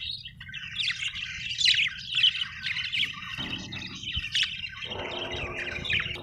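A group of small Australian parrots chirping and squawking together in busy, overlapping chatter. A lower-pitched call joins in about halfway through, over a steady low hum.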